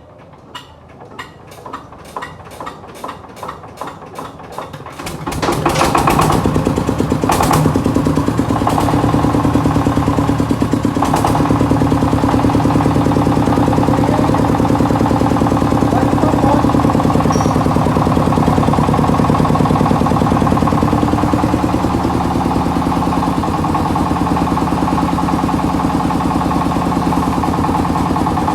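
Tractor engine starting: slow, separate beats that quicken over the first five seconds, then it catches and runs steadily with a fast 'dett dett' pulse.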